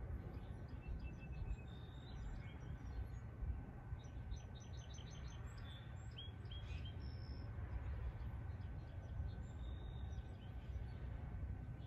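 Songbirds chirping and calling intermittently, with a quick run of short notes about four seconds in, over a steady low rumble.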